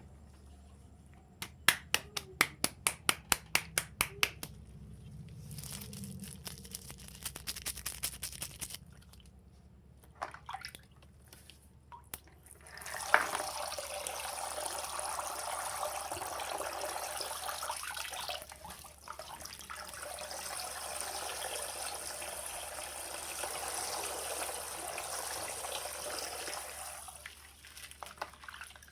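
A quick series of sharp clicks, then water pouring steadily out of a popped, water-filled plastic bag for about fourteen seconds, stopping near the end.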